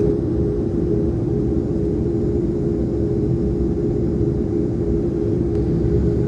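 Airliner engine drone heard from inside the cabin: a steady low rumble with a strong held hum.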